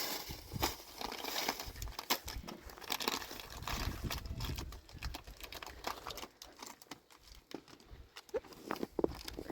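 Irregular crunching and crackling with many small clicks and rustles, as rock salt is scattered over icy, snow-covered steps.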